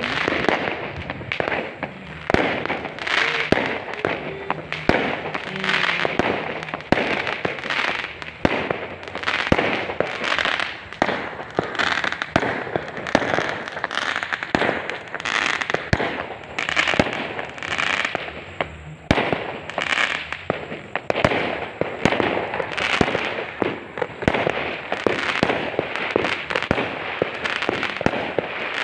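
Fireworks and firecrackers going off in a dense, continuous barrage. Irregular bangs and crackling overlap without any pause.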